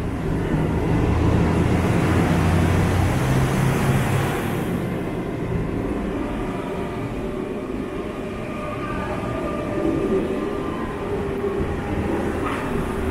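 Passenger train pulling out along the platform, its engines and running gear rumbling, loudest in the first few seconds. Later come thin high tones from the wheels and drive.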